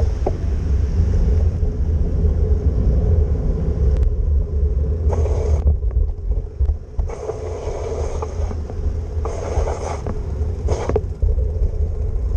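Bicycle ride recorded with wind buffeting the microphone: a steady low rumble, with several short bursts of hiss about halfway through and near the end.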